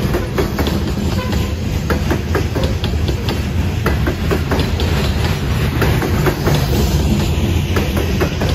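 Freight train rolling past close by: a steady heavy rumble with a continual run of clicks and clacks from the wheels passing over rail joints.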